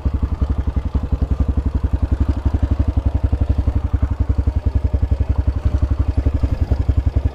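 Motorcycle engine idling close by, an even, rapid low thudding of about ten beats a second that holds steady.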